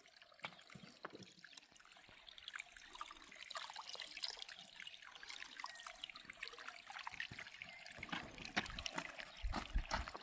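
Light trickling water with a scatter of small clicks, and a few dull knocks near the end.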